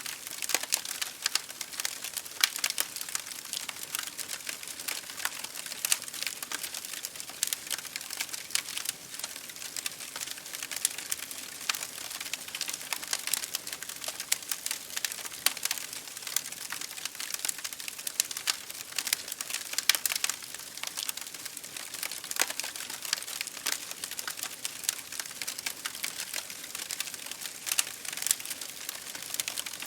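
Wood fire crackling in a fireplace: a dense, steady stream of small pops and snaps, mixed with rain pattering on a window pane.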